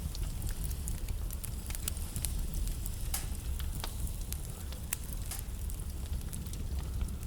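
Wood fire burning in a fireplace: a steady low rumble of the flames with many sharp, irregular crackles and pops of the burning wood.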